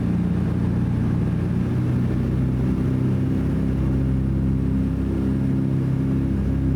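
A DC-3's twin radial piston engines droning steadily, their low, even hum with a slight shifting beat between the two engines.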